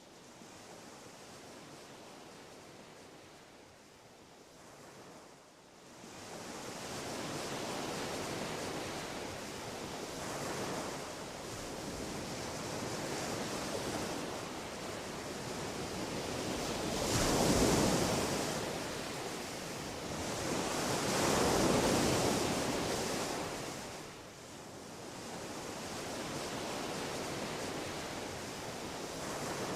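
Surf rushing and washing on a shore, swelling and easing, with two louder breakers in the second half.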